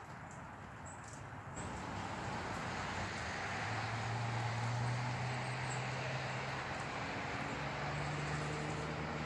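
Distant engine noise of a passing vehicle. A steady rushing hum with a low drone comes in about a second and a half in and grows louder.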